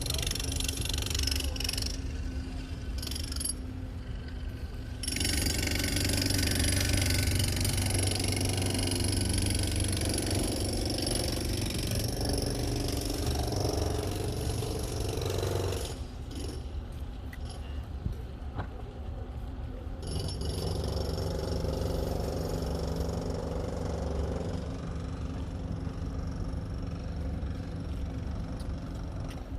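Steady low rumble of riding a bicycle, with wind on the microphone and a light rattle. It is louder from about five to sixteen seconds in, drops for a few seconds, then picks up again.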